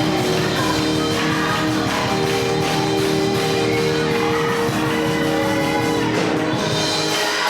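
Live gospel band music: sustained keyboard chords over guitar and drums.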